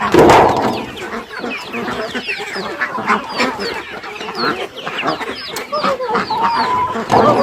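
A flock of chickens clucking, with many short calls overlapping. There is a louder, noisy burst right at the start.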